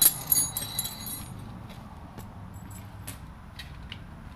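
Small metal tools clinking and rattling. A sharp, ringing metallic clink comes first, followed by scattered light clicks and taps.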